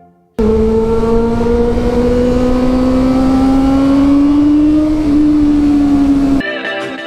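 Honda CB400 Super Four's inline-four running at high revs through a Two Brothers exhaust, its pitch climbing slowly as the bike accelerates and then easing a little. It starts abruptly and cuts off abruptly near the end.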